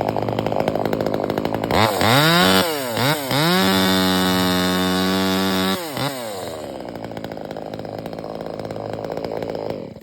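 Chainsaw idling with a fast, even putter, then throttled up about two seconds in. The pitch rises sharply, dips twice and holds high and steady for a couple of seconds before falling back to idle.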